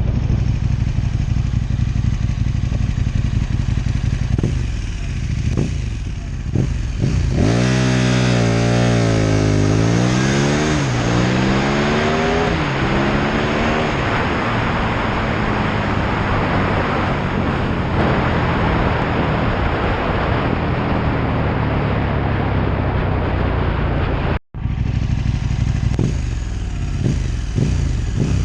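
KTM 1290 Super Duke R V-twin idling with a few short throttle blips, then launching hard about seven seconds in, the revs climbing in several steps as it shifts up through the gears. At speed, wind rushing over the microphone drowns most of the engine. After a brief cut near the end it idles and blips again, and another launch begins.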